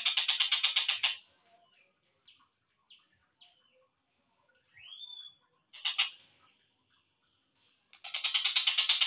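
Slowed-down recording of a tengkek buto kingfisher calling. A fast rattle of about nine notes a second lasts for the first second, then come scattered short chirps and one rising whistle in the middle, and the rattle starts again about a second before the end.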